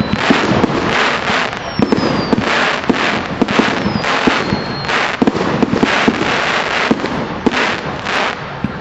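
Fireworks display going off in dense, continuous volleys of bangs and crackles, with a few high whistles falling in pitch.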